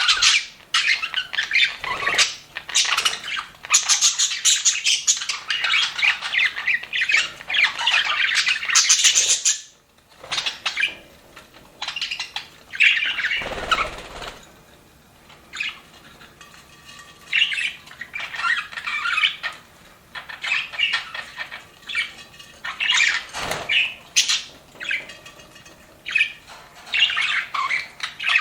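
Budgerigars chattering and warbling together, a flock of quick squawks and chirps. The chatter is dense for the first ten seconds, breaks off briefly, then comes back in shorter bursts with a couple of low thumps.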